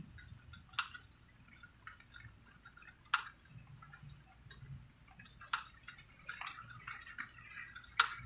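Water dripping, with a sharp drop landing about every two and a half seconds and fainter small ticks between them, over a soft low rumble.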